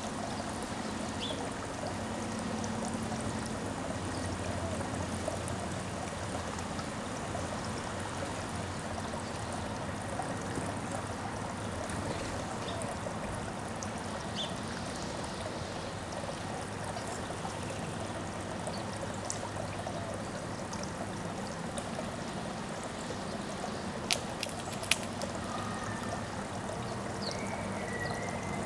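Steady rushing background noise, with a few faint short bird chirps and two sharp clicks near the end.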